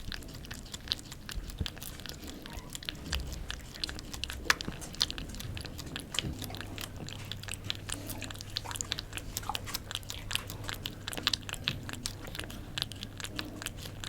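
A cat chewing and crunching food: a dense, steady run of small crisp crunches.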